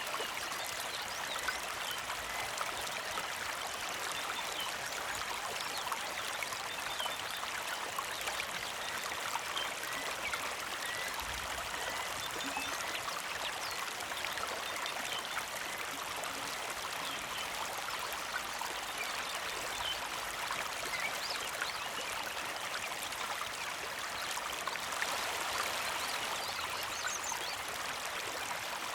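Small creek flowing steadily, a constant gentle trickle of water over its bed, with a few faint high bird chirps.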